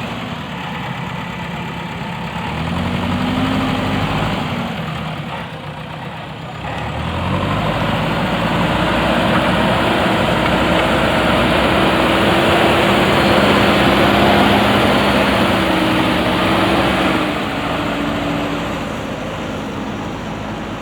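Backhoe loader's diesel engine running. It revs up briefly a few seconds in, then works harder for about ten seconds from around seven seconds in, before easing back toward idle.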